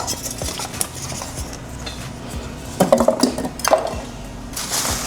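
Parts of a small electric indoor grill being handled and fitted together: light clatter and knocks of the pieces, louder about three seconds in, with a rustle near the end.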